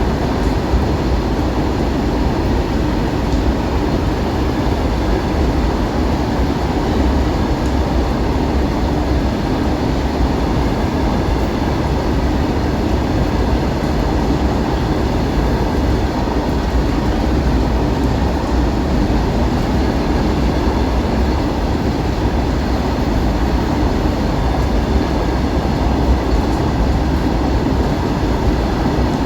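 Indian Railways express train running at speed: a loud, steady rumble of wheels on track that holds without a break.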